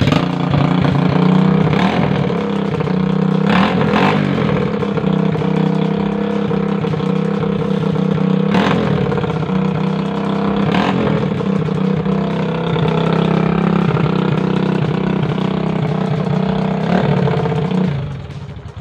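Engine of a home-made tricycle running through a short home-made exhaust with a small muffler that barely quiets it. It is a loud, steady note with a few sharp clicks, and it cuts off about a second before the end.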